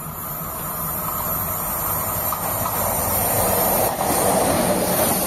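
High-speed train running at speed along the track: a rush of wheel and air noise that grows gradually louder as it comes on.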